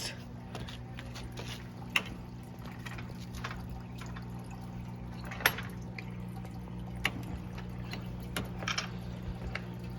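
Water trickling and dripping over a steady low electric hum, with scattered small clicks and taps, the sharpest about two seconds in and about five and a half seconds in.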